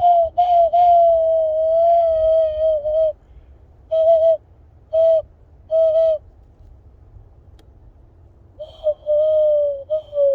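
Cupped-hand whistle blown to imitate a bird call: a hollow, owl-like tone. A long note with brief breaks comes first, then three short notes, then another long note that sags slightly in pitch at the end.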